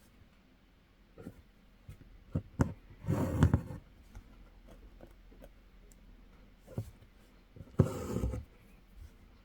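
Hand embroidery: a needle tapping and popping through taut fabric a few times, and twice a short rasp of thread being drawn through the cloth, about three seconds in and near the end.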